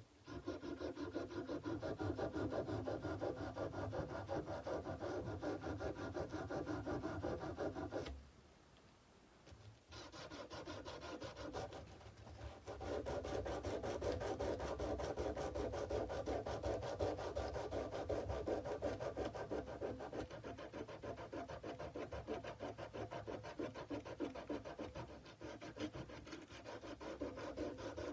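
Sandpaper rubbed by hand in quick back-and-forth strokes along a kukri's steel blade. The strokes stop for about two seconds near the middle, start again softly, then go on at full strength.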